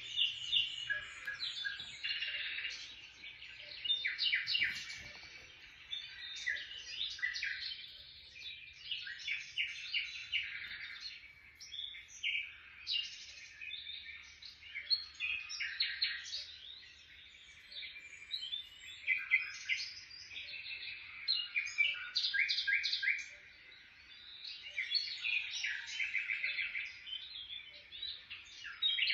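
Small birds chirping and twittering in quick, busy runs of high notes, with short lulls every several seconds.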